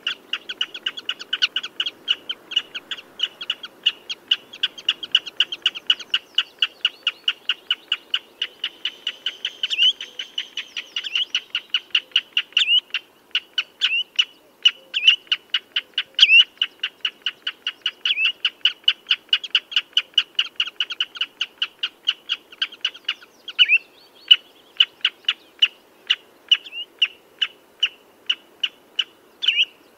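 Common redshank calling: a continuous rapid series of sharp piping notes, about three or four a second, some of them slurred.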